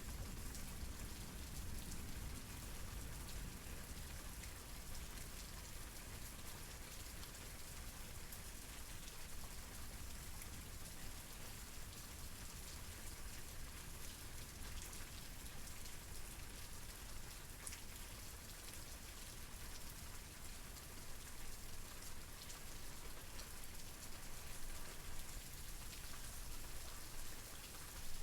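Steady rain falling in an even, unbroken patter, with no let-up.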